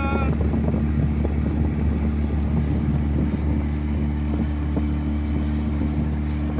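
Mercury 9.9 hp outboard motor running steadily under way, driving a small polyethylene boat.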